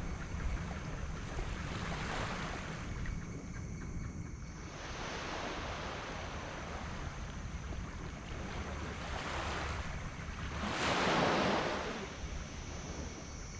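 Small tropical waves washing onto a sand beach, several swells rising and falling, the loudest breaking about eleven seconds in, over a steady low rumble of wind on the microphone.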